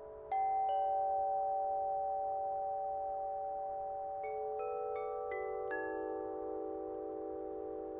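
Meinl chime tuned to 432 Hz: two notes struck near the start, then five more in quick succession a few seconds later. Each clear metallic note rings on long and overlaps the others, over notes still ringing from before.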